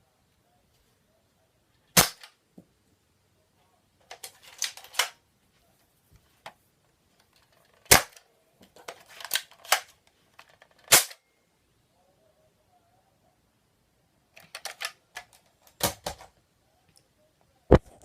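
Nerf blaster firing single sharp shots, five in all, a few seconds apart, with short bursts of clattering between them.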